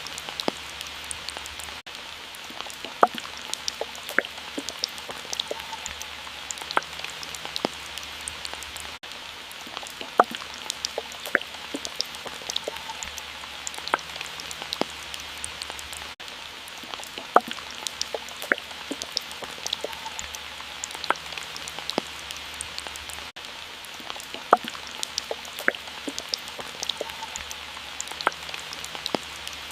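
Water drops falling and dripping at an irregular pace, each a sharp little plink, over a steady soft hiss of water. The pattern repeats about every seven seconds.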